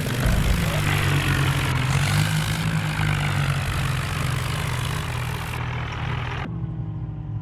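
Diesel tractor engine running loudly, a steady low engine note under a lot of noise. About six and a half seconds in the sound changes abruptly to a cleaner, quieter-topped engine running note.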